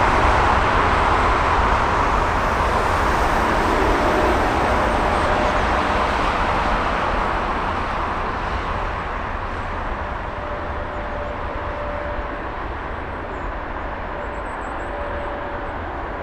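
Jet airliner engines rushing, the roar slowly fading as the aircraft moves away, with a faint steady whine underneath.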